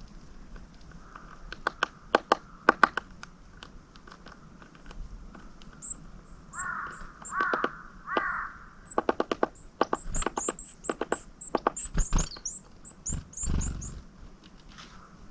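A crow caws three times about seven seconds in. Around the caws come many sharp ticks and taps in quick runs, and from midway a series of short, very high, thin calls of small birds.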